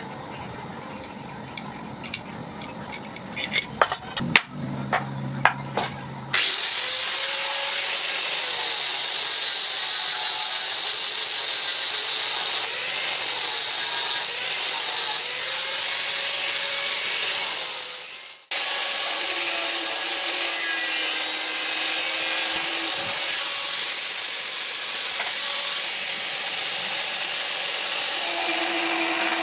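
A few sharp taps and knocks, then about six seconds in a power tool starts and runs steadily against the steel blade. It cuts out briefly about two-thirds of the way through and starts again.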